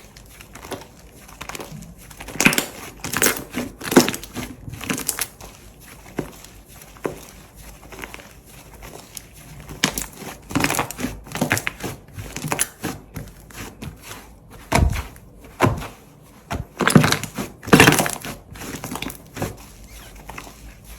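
Slime being squeezed and pressed by hand: irregular bursts of crackling and popping, in clusters a few seconds in, around the middle and again near the end.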